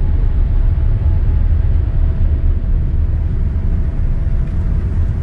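Cabin noise of a Boeing 787-9 airliner: a steady, deep rumble with a faint steady tone above it.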